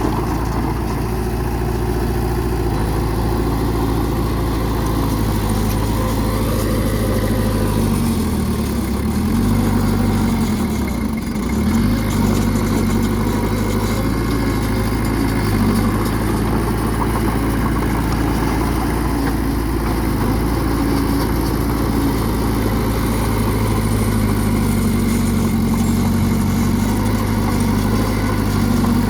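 Bulldozer's diesel engine running steadily while pushing dirt, its pitch sagging and picking back up twice about a third of the way in.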